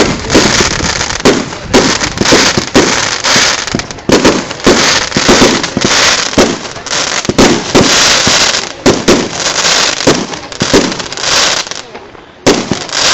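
Fireworks display: a rapid, continuous run of bangs and crackling bursts, easing briefly near the end before another bang.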